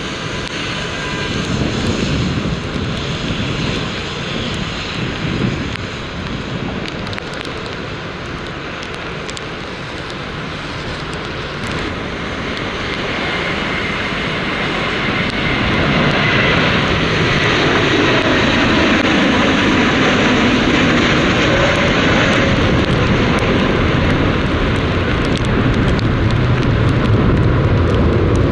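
Jet airliner engines running with a faint high whine, growing louder from about halfway through, over gusty wind buffeting the microphone.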